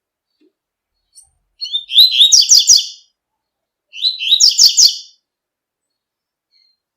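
Double-collared seedeater (coleiro) singing its tui-tui song: two phrases of quick repeated high notes, the second coming about two seconds after the first.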